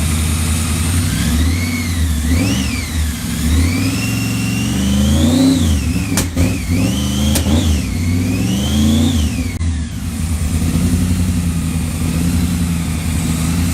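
Car engine idling, then revved up and down several times before settling back to a steady idle. Two sharp clicks come in the middle of the revving.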